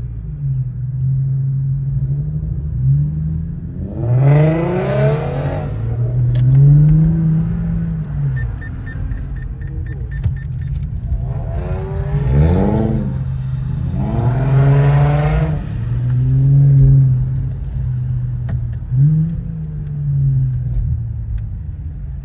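Infiniti Q50's twin-turbo V6 running under way, revving up several times in rising pulls and dropping back to a steady drone between them.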